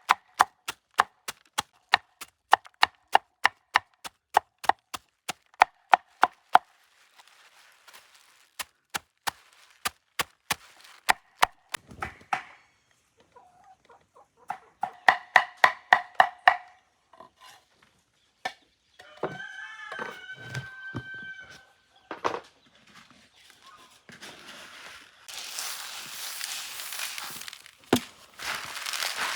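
Knife chopping on a cutting board: quick, even strokes about three a second, thinning out and stopping, then another short quick run. A chicken calls once, and rustling follows near the end.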